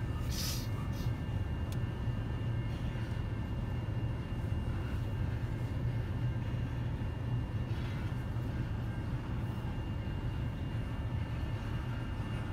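Long freight train of tank cars and covered hoppers rolling past a level crossing, heard as a steady low rumble muffled through the closed car's cabin.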